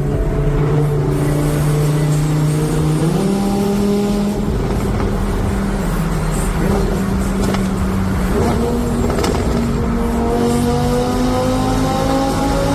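New Audi R8 Spyder's V10 exhaust echoing in a tunnel. The engine note jumps up in pitch in a few steps, then climbs steadily over the last few seconds as the car accelerates.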